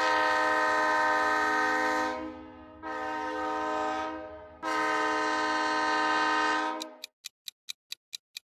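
Train horn sounding three blasts, long, shorter, long, over a low rumble. Then a fast, even ticking starts near the end, about five ticks a second.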